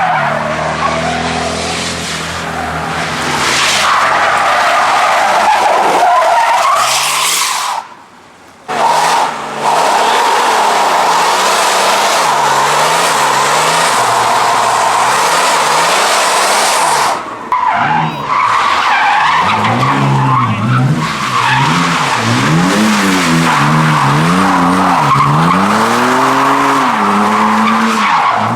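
A car drifting, its tyres squealing without a break while the engine revs up and down. The sound drops out for a moment about eight seconds in, and the engine revs stand out more in the second half.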